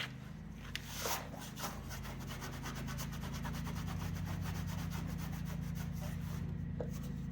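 0000 steel wool scrubbing over a truck's painted body panel with soapy water in quick, even rubbing strokes, over a steady low hum.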